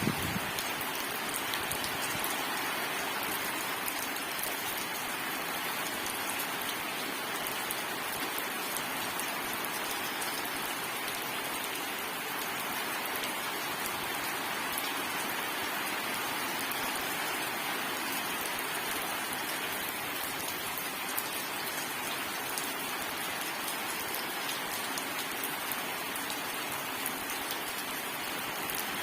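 Steady rainfall: an even hiss of rain on a surface, with scattered individual drop hits.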